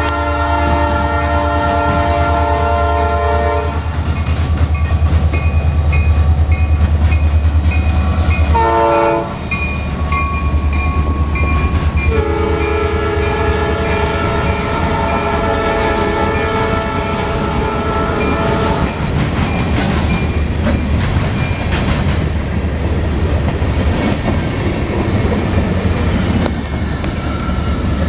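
Norfolk Southern diesel locomotive sounding its multi-chime air horn: a long blast, a short one about 9 seconds in, then a long one of about six seconds, over the steady low rumble of the engine. After the last blast, only the locomotive and cars rolling by are heard.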